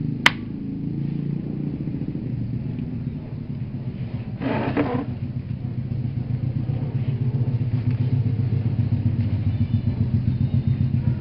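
A motor running with a steady, fluttering low hum that slowly grows louder, with a short rattle about four and a half seconds in.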